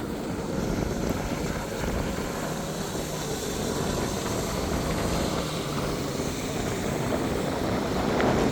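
Jet ski engine running steadily at speed, an even drone with a faint low hum and no breaks.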